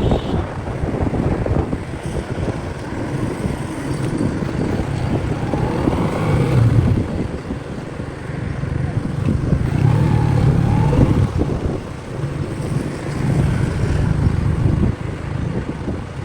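Motorcycle riding along: low engine rumble under heavy wind buffeting on the microphone, the rumble swelling a few times.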